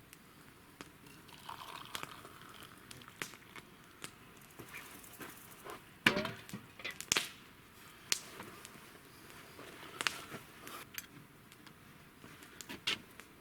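Crinkling and rustling of plastic wrapping, with scattered light clicks and two louder knocks about six and seven seconds in.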